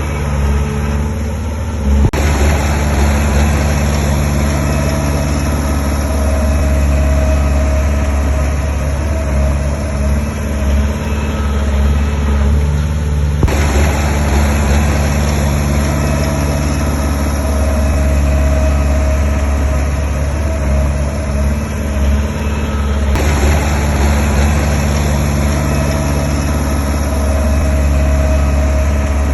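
Heavy diesel engine of earthmoving machinery running steadily with a deep low rumble; the sound changes abruptly three times, about 2, 13 and 23 seconds in.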